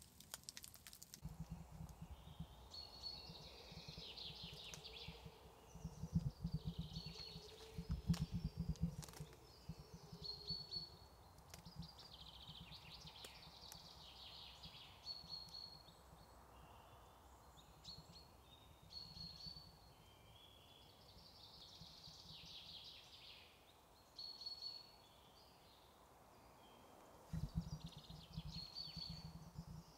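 A songbird singing the same short phrase over and over, every three to four seconds. Low rumbling comes and goes underneath, through the first ten seconds or so and again near the end.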